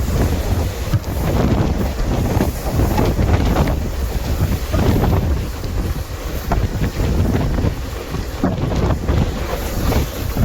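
A moving passenger train running, a steady low rumble with irregular clatter, and wind buffeting the microphone.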